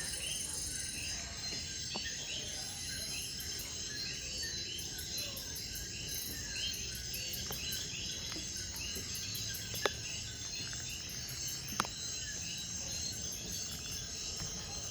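Rainforest night chorus: a steady high insect trill with short chirping calls repeating over and over. Two sharp ticks come about two seconds apart in the second half.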